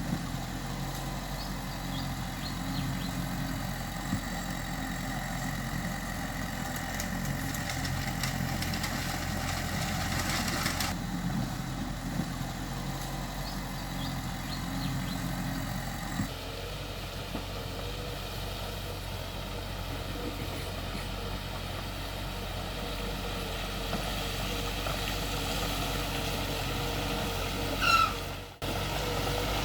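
Diesel engines of heavy earthmoving machinery, a bulldozer and dump trucks, running steadily, the engine sound shifting abruptly twice. Near the end comes a short rising squeal.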